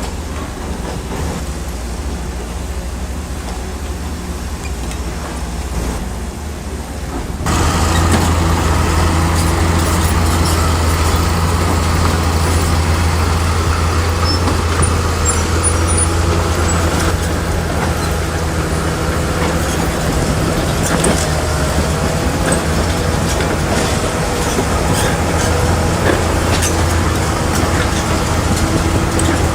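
Heavy construction machine's diesel engine running steadily with a low drone, abruptly getting louder and fuller about seven seconds in.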